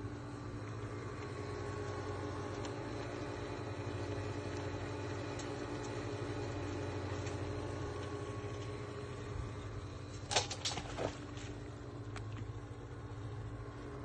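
Steady low hum of an idling engine, with a quick cluster of sharp clatters about ten seconds in.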